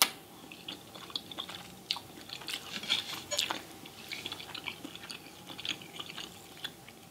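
Close-miked chewing of a mouthful of spaghetti in meat sauce: many small, irregular mouth clicks and smacks, with one sharp click right at the start.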